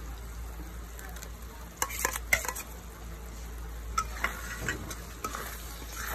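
Ground spice paste frying in oil in a wok, sizzling steadily while tomato puree is stirred into it with a wooden spatula, the spatula scraping and knocking against the pan about two seconds in and again from about four to five seconds in.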